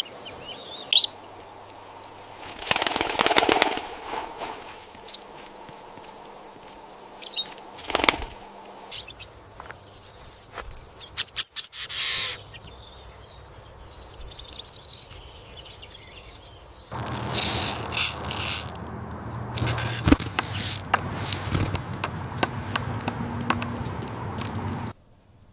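Small bird giving a few short, high chirps, mixed with brief bursts of fluttering wings and rustling. A longer stretch of rustling noise over a low hum fills the last third and cuts off suddenly near the end.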